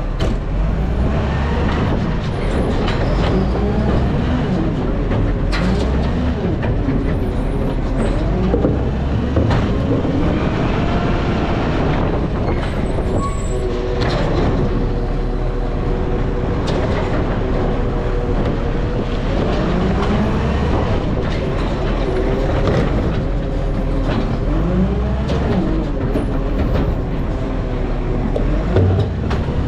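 Heavy garbage truck's diesel engine running under way, its pitch repeatedly rising and falling as it pulls away and shifts, with scattered knocks and rattles.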